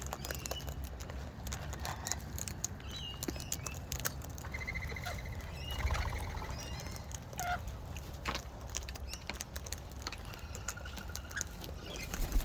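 Wild parrots feeding close by: short squeaky calls and a rapid chattering call about five seconds in and again near the end, over many small sharp clicks and taps.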